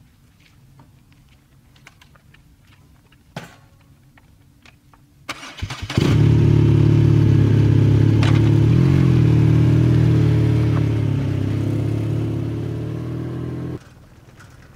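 BMW R nineT's 1,170 cc boxer-twin engine being started: a short crank about five seconds in, then it catches and runs steadily at idle. It eases slightly quieter and cuts off suddenly near the end. A single click is heard a couple of seconds before the start.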